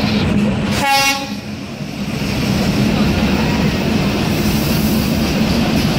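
Bangladesh Railway diesel locomotive hauling a passenger train into the station, its engine and running gear making a steady rumble, with one short horn toot about a second in.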